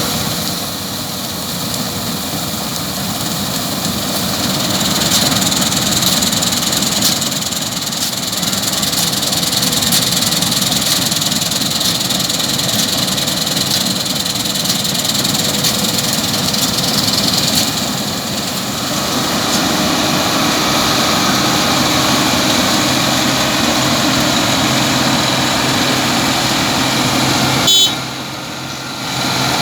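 New Holland 8070 combine harvester running steadily, its engine and machinery making a continuous loud mechanical noise. The sound shifts somewhat partway through, and near the end there is a sharp click followed by a brief drop in level.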